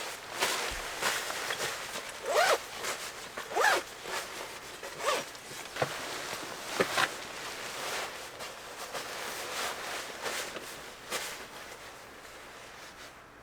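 A zipper pulled in a series of short strokes, several rising quickly in pitch, with rustling between them; it grows quieter near the end.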